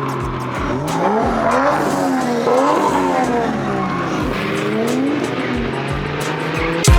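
Drift car's engine revving up and down several times as it slides, with tires squealing.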